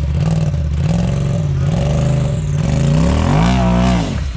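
Polaris RZR side-by-side engine working through throttle blips while rock crawling, its pitch rising and falling. It revs up harder about three seconds in, then drops off near the end.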